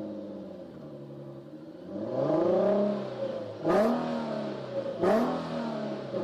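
A car engine revving: its pitch rises and falls a few times, with two sharp cracks about a second and a half apart near the middle, each followed by another rev.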